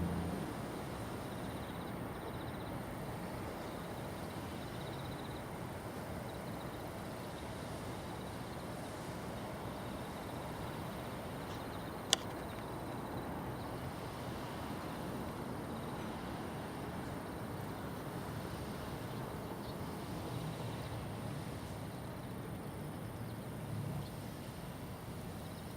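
Steady outdoor background noise, with one sharp click about twelve seconds in.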